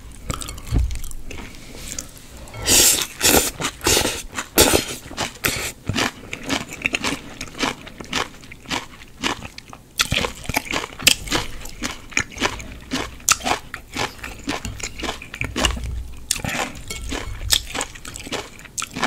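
Close-miked chewing and wet mouth sounds of a person eating spicy mixed noodles with sliced vegetables, full of rapid small crunches and smacks. The chewing grows much louder about three seconds in.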